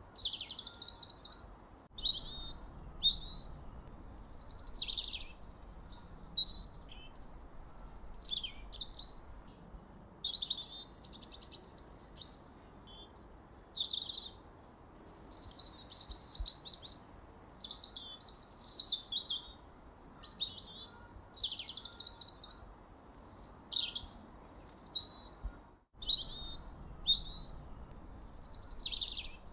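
Birdsong: a rapid, continuous run of high chirps and short whistled phrases that slide up and down in pitch, over a faint steady hiss.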